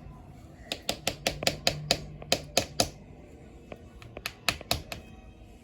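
LEGO Technic plastic parts clicking as they are worked by hand. A quick run of about a dozen clicks, then a second, shorter run.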